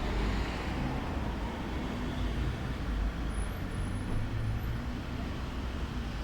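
Steady outdoor background rumble, strongest in the low end, with no clear events.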